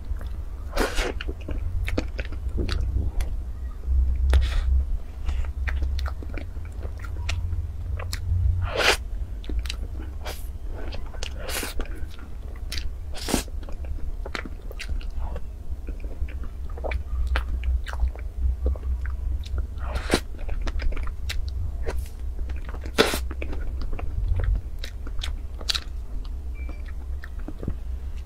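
Close-miked chewing and mouth sounds of a person eating soft cream cake: repeated wet smacks, lip clicks and chewing, over a steady low hum.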